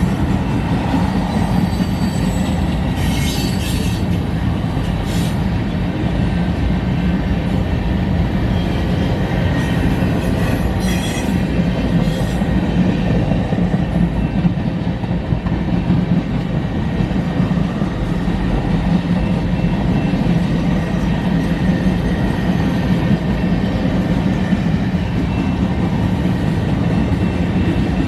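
Mixed freight train rolling past, a steady rumble of steel wheels on rail. Brief high-pitched wheel squeals come a few seconds in and again about ten seconds in.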